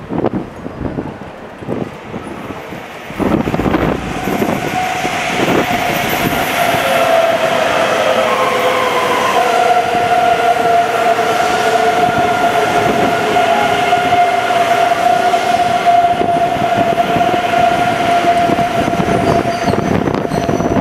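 E2 series Shinkansen train moving along the platform, its running noise starting loud about three seconds in and carrying on as a steady rumble with several held whining tones, one of them slowly falling in pitch.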